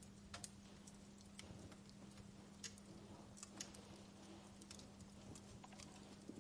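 Wood fire burning in a fireplace: soft steady hiss with irregular sharp crackles and pops from the burning logs.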